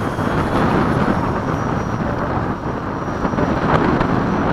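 Electric ducted-fan RC jet running in flight, a faint high whine over heavy wind rumble on the microphone.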